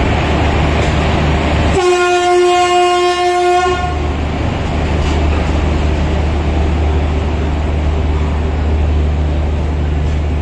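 A locomotive horn sounds one steady blast for about two seconds, a little after the start. Under it and after it comes the steady low rumble of passenger coaches rolling past as the express pulls out of the station.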